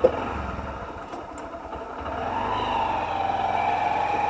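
A sharp click, then a motorcycle engine running steadily, growing louder about halfway through.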